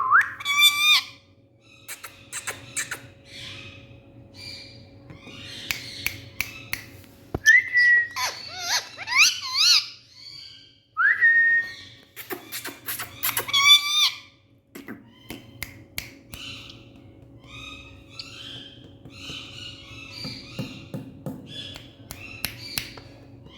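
Indian ringneck parrot calling: loud whistled notes that slide up and down in pitch, several times, between softer chattering sounds and clicks.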